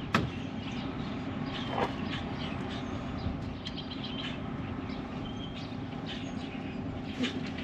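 Birds chirping over a steady low mechanical hum, with a few sharp metallic clicks: one at the start, one about two seconds in, and one near the end.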